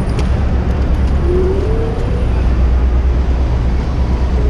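City street traffic heard from a moving bicycle, with a heavy low rumble of wind on the action-camera microphone. About a second in, a brief rising tone sounds over the traffic.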